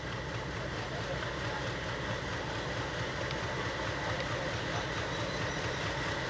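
Diesel locomotive engine running steadily, a low rumble with a faint steady high tone above it, growing slightly louder.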